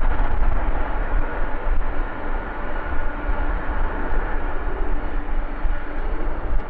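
Jet airliner engines running, a steady loud rumble with a faint steady whine over it.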